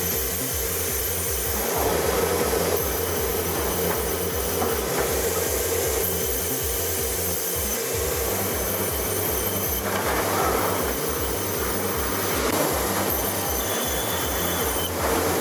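Sawmill twin band saw line running while it cuts logs: steady machine noise with thin, high, steady whining tones and a regular low pulsing underneath.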